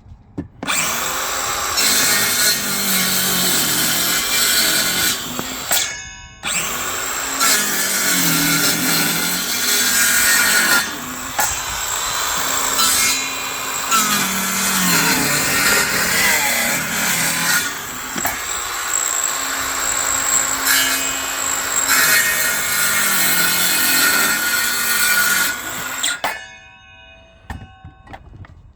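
Parkside 20 V cordless circular saws cutting through timber, the motor running under load with the pitch sagging and recovering as the blade bites, broken by a short pause about six seconds in. It stops abruptly a couple of seconds before the end.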